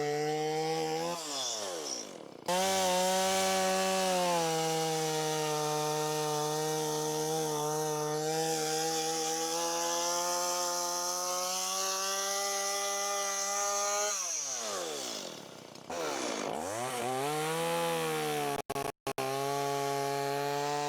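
Two-stroke chainsaw running at high revs while cutting timber. Its pitch sags and recovers twice, and it breaks off abruptly a couple of times.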